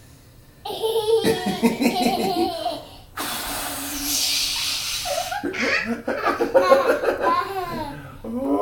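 A toddler laughing in repeated high-pitched bursts, with a long breathy hiss-like sound lasting about two seconds in the middle.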